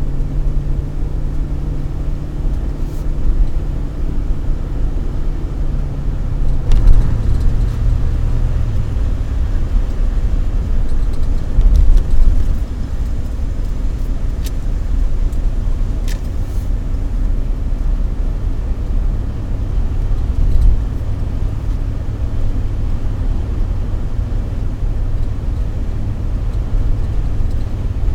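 Car engine and road noise while driving: a steady low drone whose hum drops a little in pitch about six or seven seconds in, with a few faint clicks.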